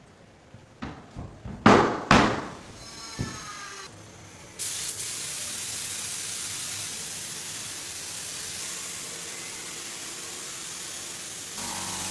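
A few sharp knocks, then a steady hiss of spraying starts about four and a half seconds in and stops shortly before the end.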